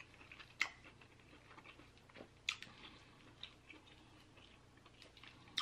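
Faint eating sounds of king crab legs being handled and eaten: scattered soft clicks and ticks of shell and chewing, two a little louder about half a second and two and a half seconds in.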